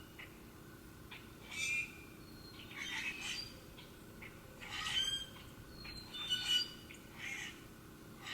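Wild birds calling: short, harsh squawky calls, about one every second and a half.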